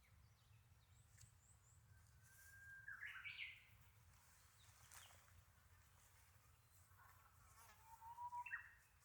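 A bird sings two faint phrases, a few seconds apart, over quiet outdoor background. Each phrase is a held whistled note ending in a quick rising flourish. A few faint high chirps come about a second in.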